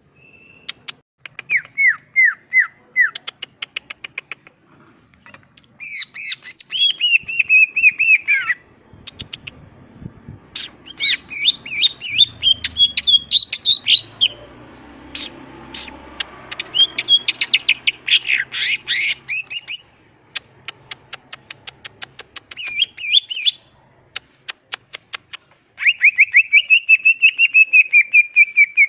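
Green leafbird (cucak ijo) singing: bursts of fast chattering phrases made of rapid ticking notes and short descending whistles, repeated with brief pauses between them.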